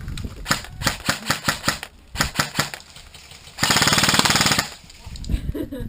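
Airsoft gunfire: a quick string of sharp clicks in the first half, then a dense full-auto burst lasting about a second, a little past halfway.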